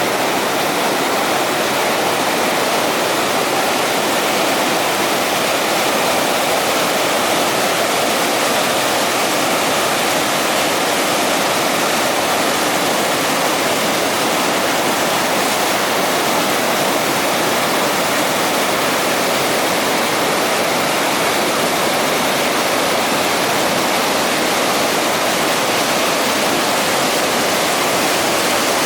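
Waterfall on a forest river, water pouring over rocks in a steady, unbroken rush.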